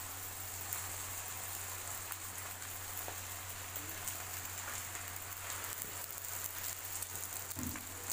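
Chopped vegetables frying in oil in a hot pan: a steady sizzle with small crackles, as cold leftover rice is added by hand. A low steady hum runs underneath.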